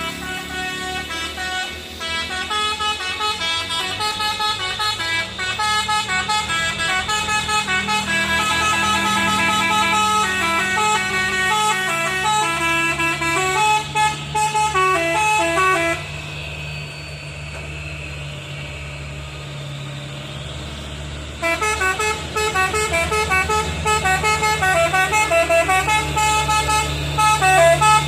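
Truck's musical multi-tone horn playing a rapid tune of stepping notes over diesel engines running. The tune breaks off for about five seconds past the middle, leaving only the engine rumble, then starts again louder.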